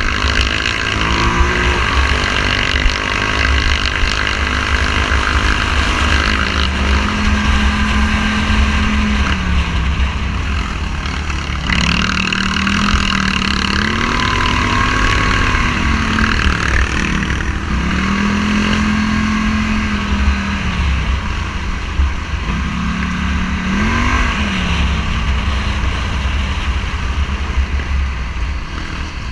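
A Polaris Scrambler 1000 ATV engine under way, its revs rising, holding and dropping several times as the rider accelerates and eases off, with heavy wind rumble on the microphone.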